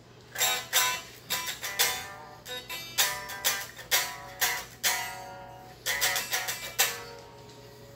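Electric guitar played through a Laney Iron Heart IRT30 amp on a clean sound: separate picked notes and chords, each ringing out, over a steady low hum from the amp. The amp is being tested after a repair of input jack, effects loop and attenuation switch solder joints that had made the signal cut out.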